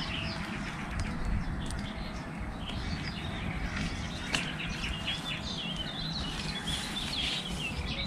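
Songbirds chirping and warbling over a steady low rumble, with a single sharp click about four seconds in.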